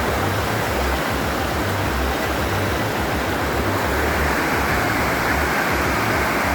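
Waterfall on a creek: water rushing steadily, with an uneven low rumble underneath.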